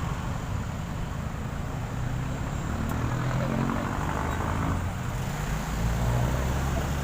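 Street traffic: a motor vehicle's engine running close by, with a steady low hum and road noise, slightly louder in the second half.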